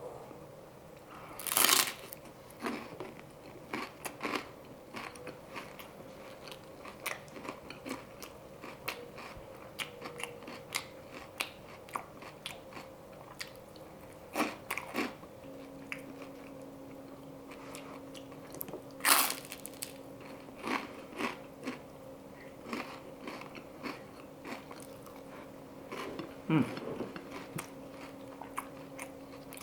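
Close-up biting and chewing of crunchy pork chicharron nachos: a few loud crisp bites with many small crackles between them as the fried pork rinds are chewed. A faint steady hum comes in about halfway through.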